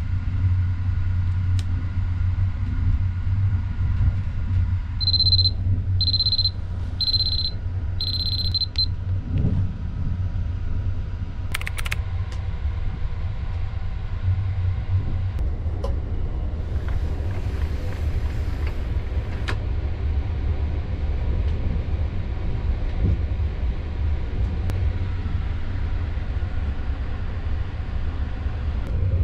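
Steady low rumble of the Sunrise Seto sleeper train (285 series electric train) running, heard inside a private compartment. About five seconds in come four short high electronic beeps about a second apart, and a sharp click follows a few seconds later.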